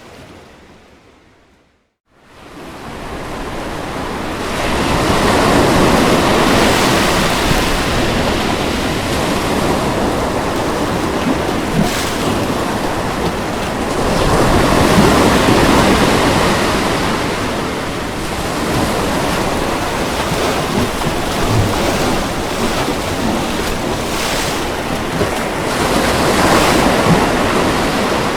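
Ocean surf breaking and washing onto a beach, swelling and easing in three slow waves. The sound fades out to silence about two seconds in, then fades back up over the next few seconds.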